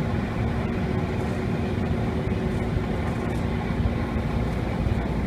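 Steady running noise inside a JR East 205 series electric train car in motion: a continuous low rumble of wheels on the rails with a steady low hum running through it.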